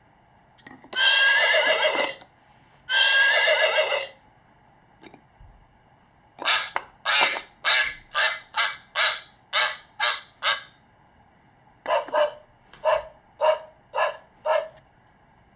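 Recorded farm-animal calls played through the small speaker of a Melissa and Doug "On the Farm" wooden sound puzzle: two long calls, then a quick run of about ten short calls, then after a pause about eight more short calls.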